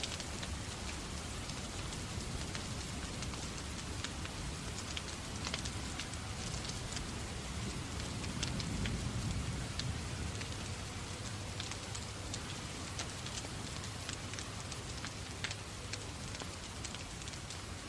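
Steady rain mixed with a crackling wood fire in a fireplace, with many small sharp pops and ticks scattered throughout over a low rumble.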